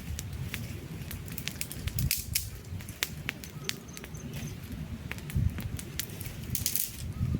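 Wood campfire crackling, with frequent irregular sharp pops and snaps over a low, steady rumble.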